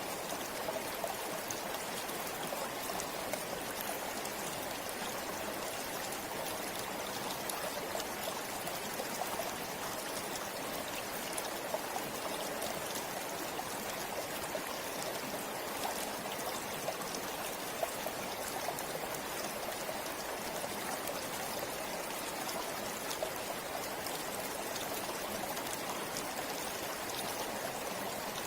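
A river or stream flowing over rocks, a steady rush of water with small splashes and trickles.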